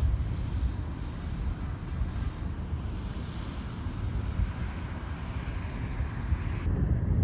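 Jet airliner engines at a distance: a steady low rumble with a faint whine that swells slightly about halfway through.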